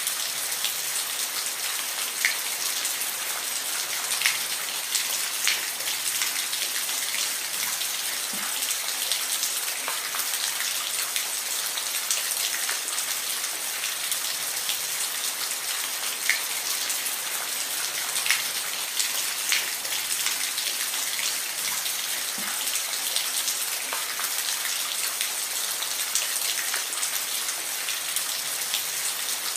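Steady rain, a dense hiss with scattered individual drops ticking more loudly every second or two.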